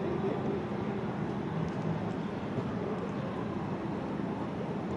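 Steady urban street background: a constant low rumble of city traffic with no distinct single event.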